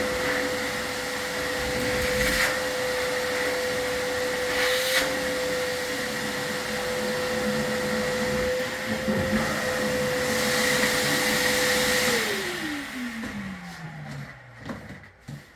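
Vacuum cleaner running steadily with a high motor whine. About three-quarters of the way through it is switched off, and the whine falls in pitch as the motor spins down.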